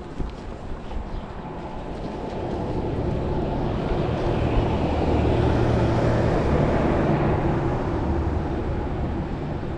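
A motor vehicle passing by: a low rumble that builds to a peak around the middle and then fades away.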